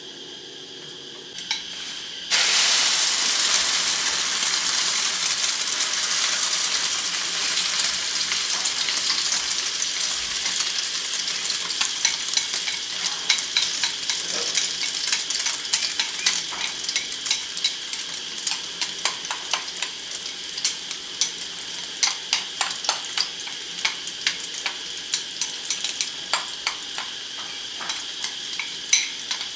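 Food going into hot oil in a pan and frying: a loud sizzle starts suddenly about two seconds in, then slowly eases as more and more sharp pops and crackles break through.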